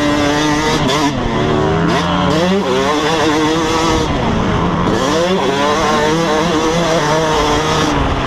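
Motocross dirt bike engine running hard and loud, its pitch climbing again and again as the bike accelerates, then dropping as it shifts or backs off.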